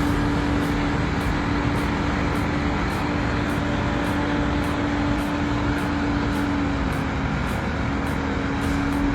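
Heavy vehicle engine running steadily with a constant low drone that sags briefly near the end, over a broad rumble of machinery noise.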